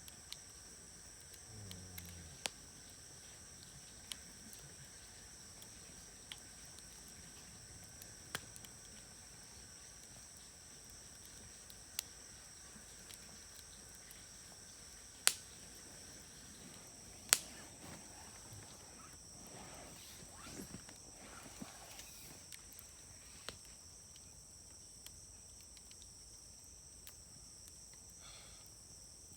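Wood fire crackling in a fire grill, with scattered sharp pops and two much louder pops a couple of seconds apart around the middle. Insects trill steadily and high-pitched throughout.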